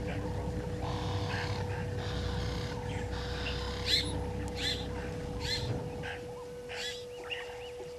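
Several harsh, repeated bird calls in the second half, each with a falling pitch, over a low rumble that fades near the end and a steady faint hum.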